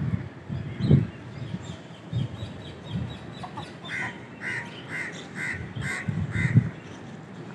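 A bird calling six times in quick succession, evenly spaced about half a second apart, starting about four seconds in. Wind buffets the microphone with low rumbles throughout.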